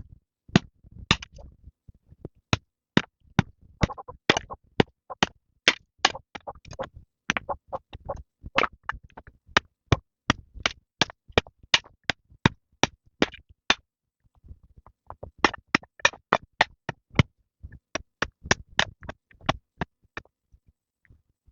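Rapid sharp knocks, about two to three a second in an uneven rhythm, with a short pause about two-thirds of the way through.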